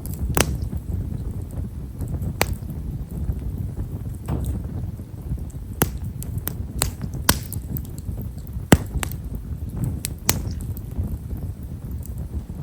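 Campfire of himeshara (tall stewartia) firewood burning, giving a fine, quiet crackle: many small, sharp pops at irregular intervals, a few of them louder, over a low steady rumble.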